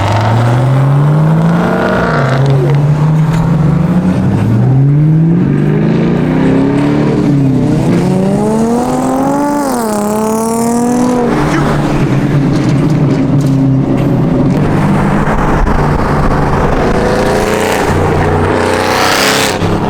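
Car engine revving hard, its pitch climbing and dropping back several times over the first ten seconds or so, then settling into a steadier, lower engine sound.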